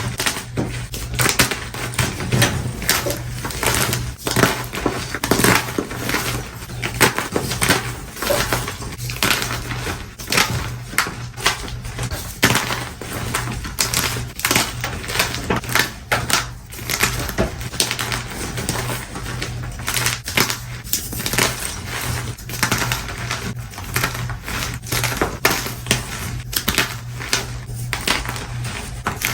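Blocks of gym chalk being crushed in a fast, continuous series of crisp crunches and crumbles.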